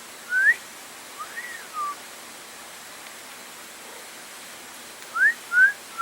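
Clear whistled calls over a steady hiss. There is a short rising note near the start, then a note that rises and falls. Near the end come two quick rising notes.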